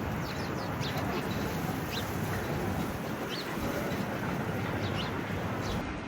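Street ambience: a steady low hum of traffic with small birds chirping in short, high calls about half a dozen times.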